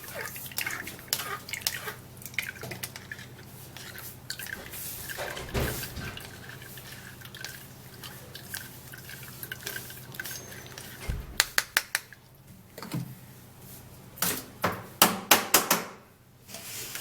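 Blended juice dripping and trickling through a strainer, with scattered small ticks. In the second half come several sharp clicks and knocks of utensils against kitchen containers.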